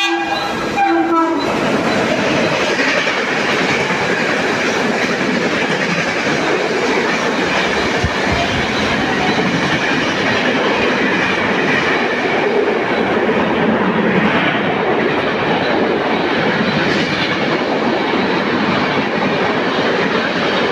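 A train horn blows and cuts off about a second in. A train then passes at speed, with a steady rush of wheels and carriages clattering over the rails.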